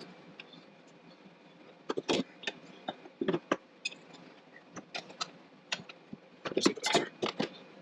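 Irregular light metallic clinks and knocks from metal parts being handled and test-fitted by hand, in three clusters: about two seconds in, around three and a half seconds, and near the end.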